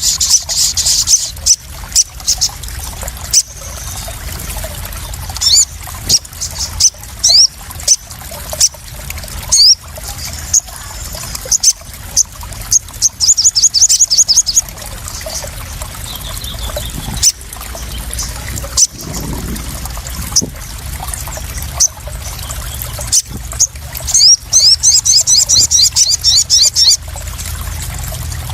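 Sogon (crimson sunbird) calling in high, rapid trills of quick falling chirps, several bursts apart, over water splashing and trickling with frequent sharp drips and splashes.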